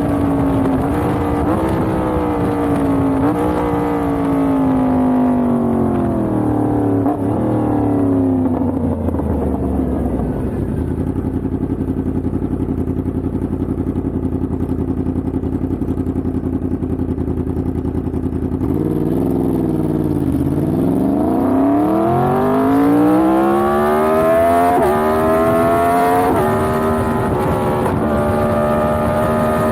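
Yamaha MT-10's crossplane inline-four engine slowing down with its pitch falling, then running at a low steady idle for about eight seconds. It then pulls away, revving up through several gear changes; each shift briefly drops the pitch before it climbs again, settling to a steady cruise near the end.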